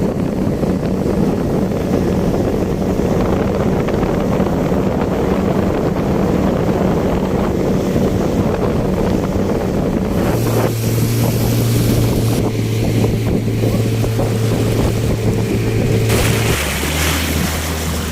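Motorboat engine running steadily under way, with wind buffeting the microphone and water rushing past the hull. The engine note changes about ten seconds in and again near the end.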